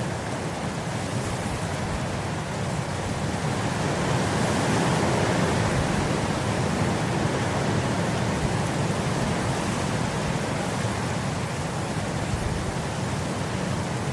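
Wind blowing across grass: a steady rushing noise with a low rumble beneath it, swelling for a few seconds about four seconds in before easing again.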